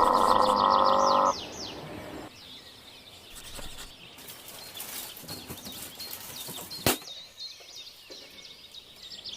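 Birds chirping repeatedly in the background. A loud pitched sound cuts off about a second in, and a single sharp snap comes about seven seconds in.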